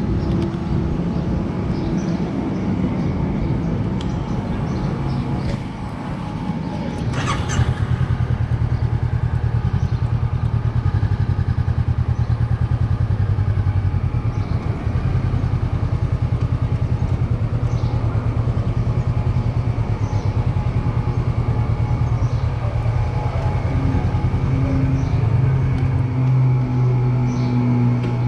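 Road vehicle's engine running steadily with road noise while driving, with a brief sharp noise about seven seconds in and the engine note rising near the end.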